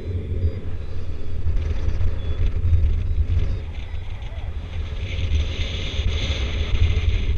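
Wind buffeting the microphone in flight under a paraglider: a heavy low rumble that swells and eases, with a rush of airflow growing louder from about five to seven seconds in.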